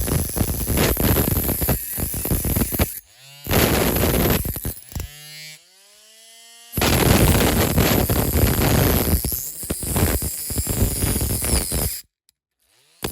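Metal being cut on a die-cast toy car's base plate: harsh, rapid rasping in long runs, broken in the middle by a pitched motor whine that changes pitch, and cutting out suddenly near the end.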